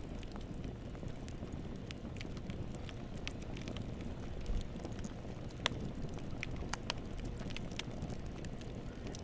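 Wood fire burning in a fireplace: a steady low rush of flames with scattered sharp crackles and pops, a sharper pop a little past halfway.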